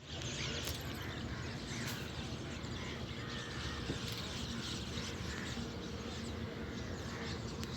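Many birds chirping and calling in short overlapping notes, over a steady low rumble.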